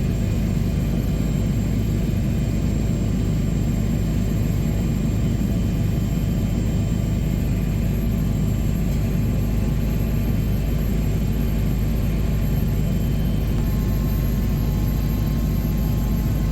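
Bell 429 helicopter in flight, its twin turboshaft engines and rotor running steadily: a deep constant drone with a thin high turbine whine over it.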